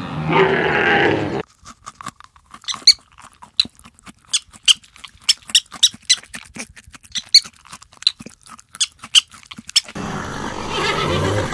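Porcupine chewing leafy greens: sharp, irregular crunching clicks, about two or three a second. A short animal call comes just before it at the very start.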